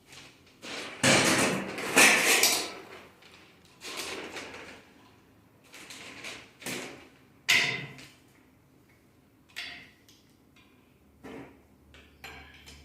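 Metal engine parts and hand tools clattering and scraping during engine teardown: a long scrape early on, then a string of separate knocks and slides.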